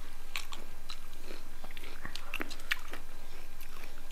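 Several people biting into and chewing slices of fresh fruit, giving a string of short, irregular crunches and wet mouth clicks.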